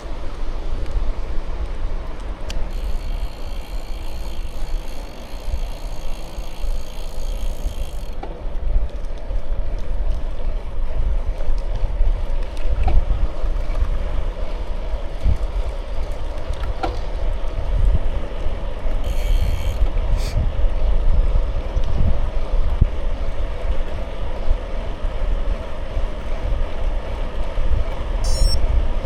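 Wind buffeting a bicycle-mounted microphone over the steady rumble of bike tyres rolling, with a few small knocks from the bike along the way.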